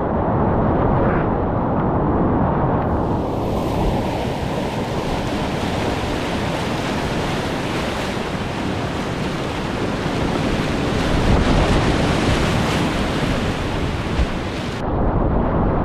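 Whitewater river rapids rushing and churning, heard close up with a heavy low rumble and microphone buffeting. A brighter splashing hiss comes in about three seconds in and drops off abruptly a second before the end.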